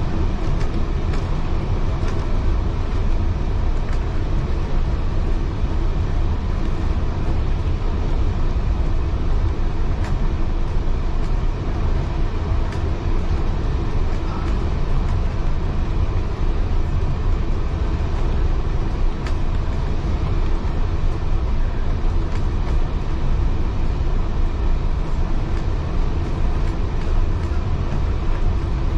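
Steady running rumble of a heritage railway carriage under way, wheels rolling on the rails, with a couple of faint clicks.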